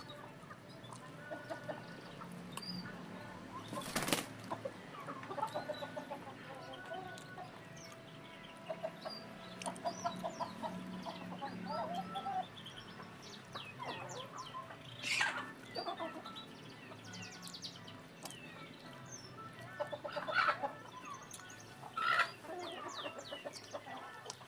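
Chickens clucking and small birds chirping in short repeated calls, with a sharp knock about four seconds in.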